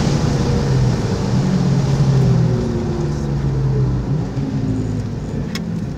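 Car engine running under load with tyre and road noise, heard from inside the cabin on a circuit lap; the engine note climbs and drops several times as the car accelerates and lifts through the corners.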